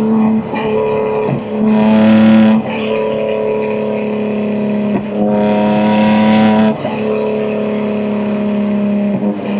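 A 2025 BMW M2's twin-turbo S58 straight-six, fitted with catless downpipes and an equal-length mid pipe, under way with a steady exhaust drone. The exhaust swells twice under throttle, briefly about two seconds in and for longer about five seconds in, with short dips between the surges.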